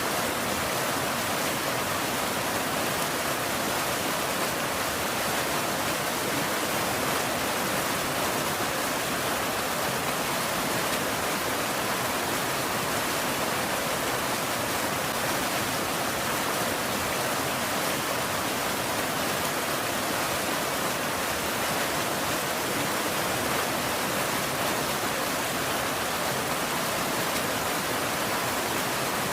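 Steady rain falling, an even unbroken hiss that neither rises nor falls.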